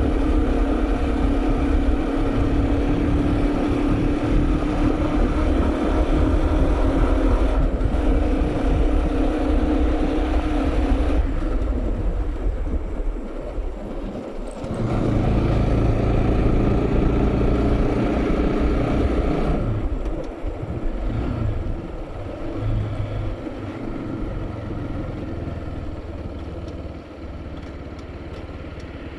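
Bajaj Pulsar NS200 single-cylinder engine running while the motorcycle is ridden, with wind rumble on the microphone. The engine note changes a few times and grows quieter over the last several seconds.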